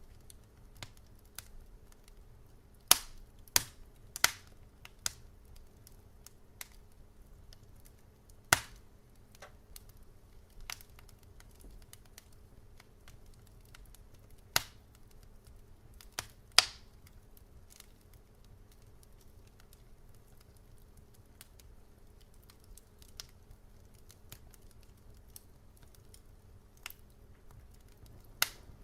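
Wood fire crackling: scattered sharp pops and snaps at irregular intervals, a cluster of loud ones in the first few seconds and again around the middle, then a quieter stretch with only faint ticks before a couple more pops near the end, over a faint low rumble.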